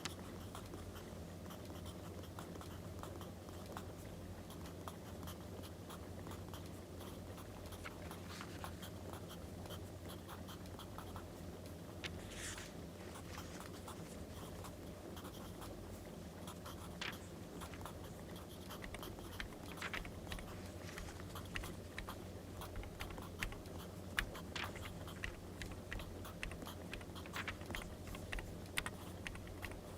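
Wood fire crackling with scattered small pops and clicks over a low steady hum, mixed with pen-on-paper and paper-handling sounds. The clicks grow more frequent in the second half, and a short paper rustle comes about twelve seconds in.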